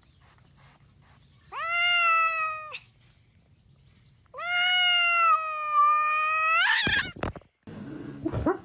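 A cat meowing twice: first a meow of about a second, then a longer drawn-out meow that rises in pitch at the end.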